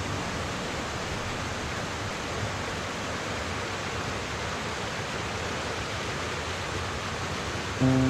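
Steady rush of a waterfall's falling water, an even hiss at constant level. Music comes in right at the end.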